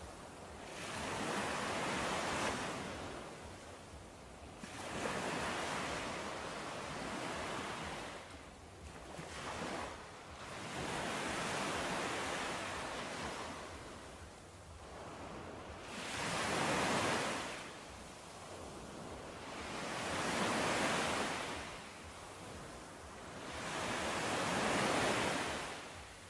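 Sea waves breaking and washing onto the shore, each surge of foaming water swelling and fading every three to five seconds.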